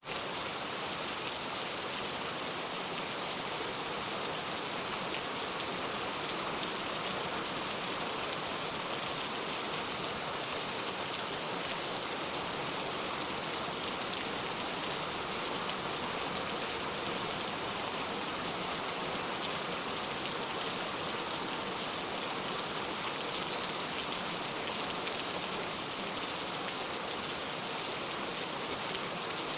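Steady rain falling on the ground: an even hiss of many drops.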